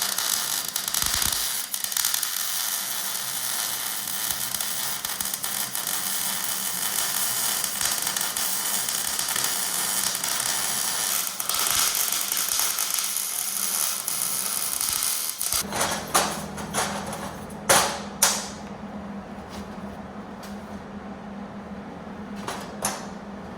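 Welding arc crackling and hissing steadily for about fifteen seconds as a bead is laid, then cutting off suddenly, followed by a few sharp clicks and knocks. The welder felt it wasn't running right and suspects a thin 69-foot extension cord.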